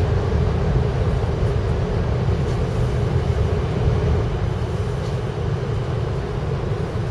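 Steady low rumble of a Kyushu Shinkansen 800 series train running, heard inside the passenger car.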